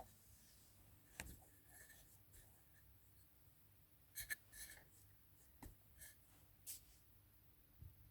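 Near silence in a small room, broken by a few faint, short scratching and tapping sounds, the clearest a small cluster about four seconds in.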